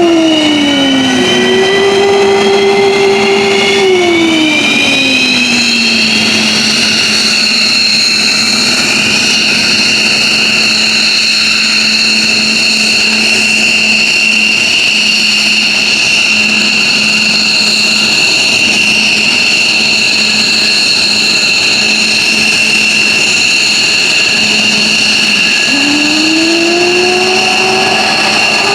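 F-15J Eagle's F100 turbofan engines spooling up during engine start: a high turbine whine climbs in pitch over the first six seconds and then holds steady. A lower tone drops in pitch twice in the first few seconds and rises again near the end.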